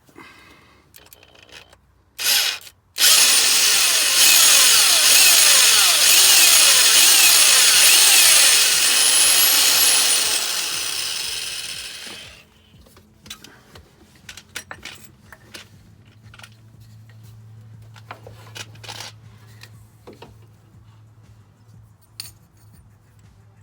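Power drill boring into a broken exhaust manifold bolt to enlarge the hole for a bolt extractor: a short burst, then a run of about nine seconds that winds down, the pitch sagging again and again as the bit bites. Light clicks and taps follow.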